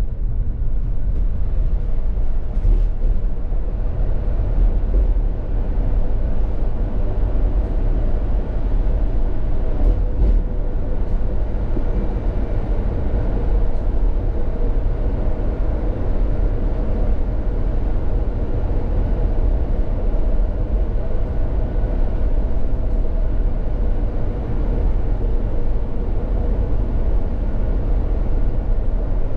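Steady low rumble of a moving vehicle, with a faint constant hum above it.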